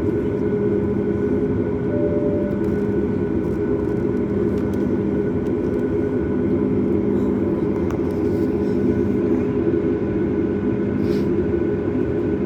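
Steady cabin drone inside a Boeing 737 MAX: engine hum with several fixed tones over a constant rush of air noise.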